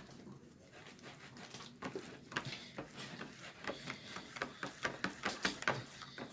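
Homemade slime being worked in the hands, giving a run of irregular sticky clicks that start about two seconds in.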